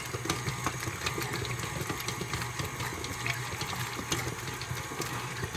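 KitchenAid stand mixer running steadily on a low speed, its attachment churning through cooked chicken breasts in the bowl and shredding them, with a light irregular clatter over the motor hum.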